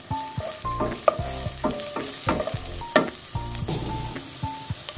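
Sliced shallots and garlic sizzling in hot oil in a ceramic-coated wok, being sautéed until dry. A wooden spatula stirs them, scraping and knocking against the pan several times.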